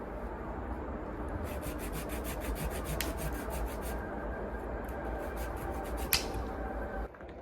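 Steady rubbing noise with a quick run of short rasping strokes, about eight a second, for a couple of seconds, then a sharp click near the end; it cuts off abruptly just before the end.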